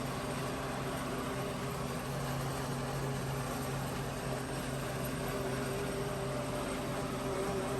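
Tractor diesel engine and pull-type forage chopper running steadily at a constant pitch, one even mechanical drone.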